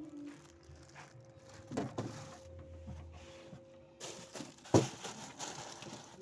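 Handling noises: a few short knocks and clatters, the loudest and sharpest about five seconds in, over a faint steady hum.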